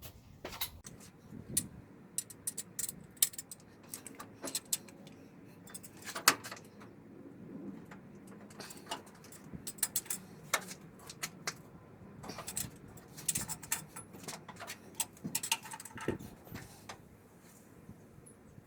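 Irregular metallic clicks and clinks of hand tools on an engine: a torque wrench tightening the water pump bolts on a 350 small-block V8, with the loudest click about 6 seconds in.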